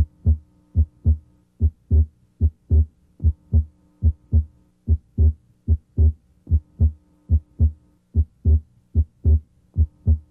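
Heart sounds heard through a stethoscope's diaphragm at the left second interspace: a steady run of paired beats. The second heart sound is split abnormally wide, and the split comes and goes with respiration. A faint steady hum lies underneath.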